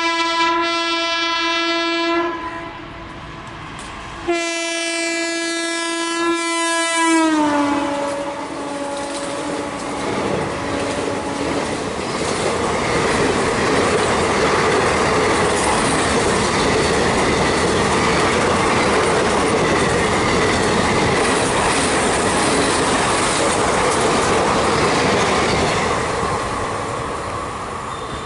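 Air horn of a WAP4 electric locomotive sounding twice: a blast of about two seconds, then a longer one whose pitch drops sharply as the locomotive passes at speed. It is followed by the steady rush and wheel clatter of the 24-coach express running past on the rails, easing a little near the end.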